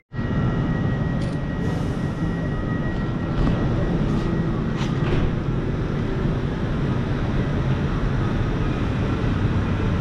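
Steady rumble of a train at a station platform, with a faint steady high whine running through it and a few light clicks.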